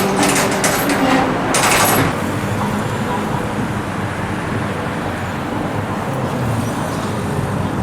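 Steady street traffic noise from a busy city road, with jingling clicks over the first two seconds.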